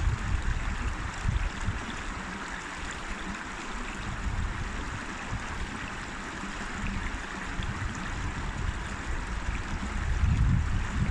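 River water running and rushing steadily, as an even hiss. Low rumbles swell near the start and again near the end.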